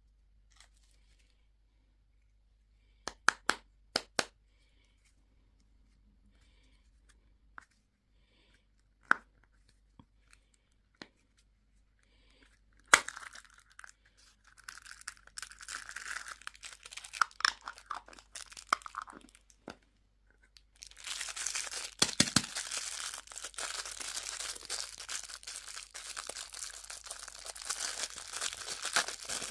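Candy and surprise-egg wrappers being handled and opened: a few sharp clicks and taps, then crinkling and tearing of wrapper packaging, growing into steady, dense crinkling for the last third.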